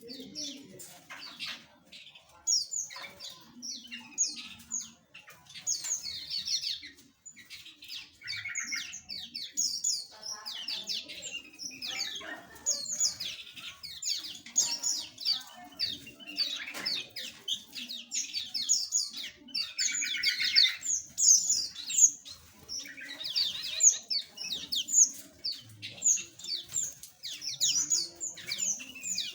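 A flock of small aviary birds chirping and twittering, many short, overlapping high calls and trills in a continuous chatter.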